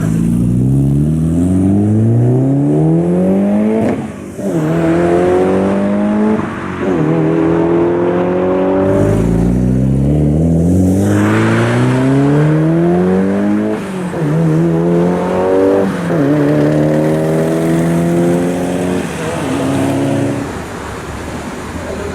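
Performance car engine accelerating hard through the gears: the revs climb steadily, then drop sharply at each upshift, several times over. The engine sound gets quieter near the end.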